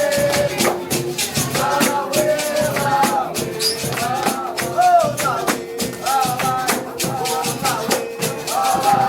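Capoeira music: voices singing over a steady, quick percussion beat with tambourine.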